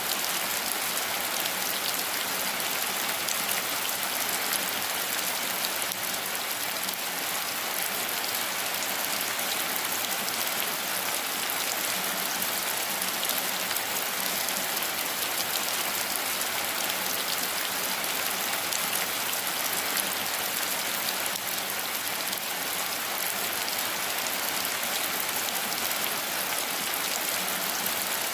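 Steady rain falling, an even hiss of many drops pattering.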